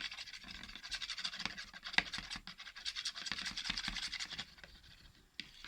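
Quick, dense scraping and clicking of a utensil stirring clear glue and blue paint in a container, easing off about four and a half seconds in.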